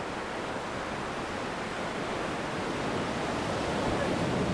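Sea surf washing onto a sandy beach, a steady rush that swells a little near the end.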